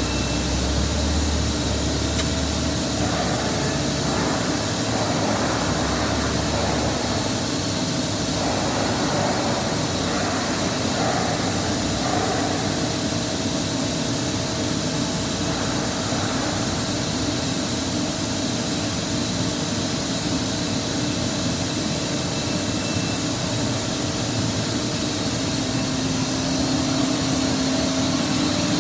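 A boiler being fired for its fire test: a steady rushing roar and hiss with a faint steady hum underneath.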